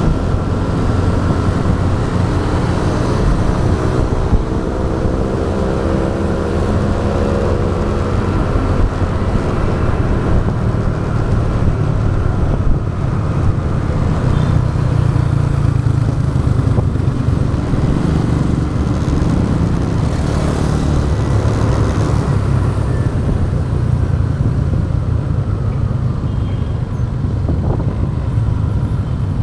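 Motorbike riding through traffic: its engine running at road speed under steady tyre and wind noise, with an engine note rising for a few seconds early in the ride.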